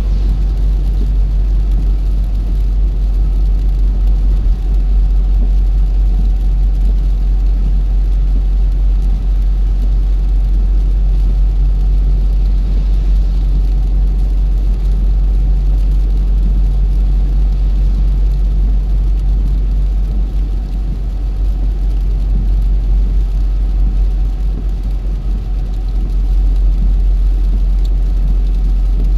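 Car driving along a road: a steady low rumble of engine and tyre noise that eases off slightly about two-thirds of the way through, then picks up again.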